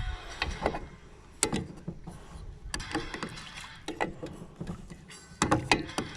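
Irregular knocks and clunks of things being handled, with no motor running.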